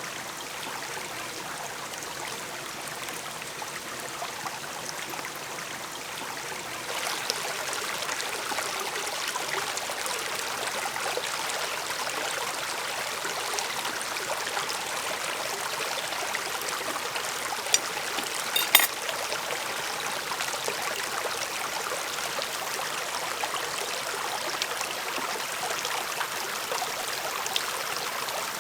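Food sizzling in hot frying oil, a steady hiss that gets louder about seven seconds in, with a few sharp clicks and spits near the middle.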